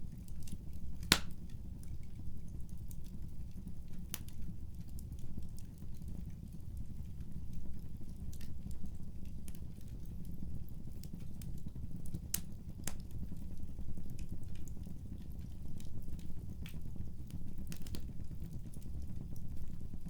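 Wood fire crackling: a steady low rumble of flames with scattered sharp pops, the loudest about a second in.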